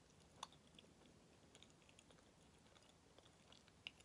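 Faint, soft chewing with small wet mouth clicks as a person eats a Kamome no Tamago, a soft baked sweet filled with white bean paste. A sharper click comes about half a second in and another near the end.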